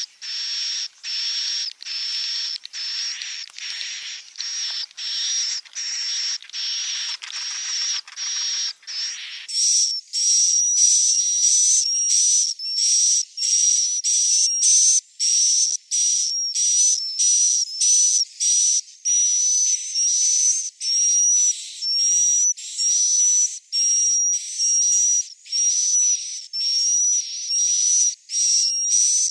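Swiftlet roosting-lure ('inap') recording of swiftlet chick calls: short, raspy, hissing chirps, each with a high whistle-like tone, repeated about one and a half times a second. About ten seconds in, the calls turn thinner and higher-pitched.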